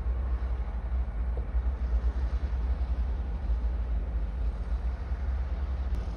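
Bulldozer's diesel engine running with a steady low rumble.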